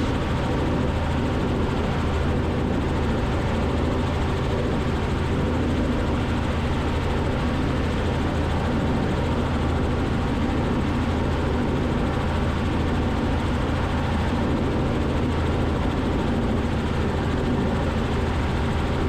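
Robinson R44 helicopter's engine and rotor noise in cruise, a steady even drone with a low hum, heard through the intercom feed.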